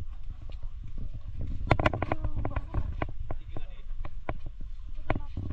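Low rumble of wind and handling on a phone microphone, with many irregular clicks and knocks, and people's voices in the background about two seconds in.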